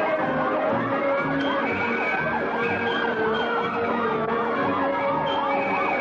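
Many emergency-vehicle sirens sounding together: slow rising and falling wails overlapping with fast repeating yelps.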